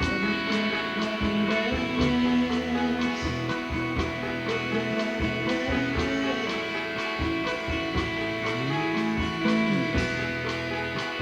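Rock band playing an instrumental passage live: electric guitars over bass and a steady drum beat, with some notes sliding in pitch.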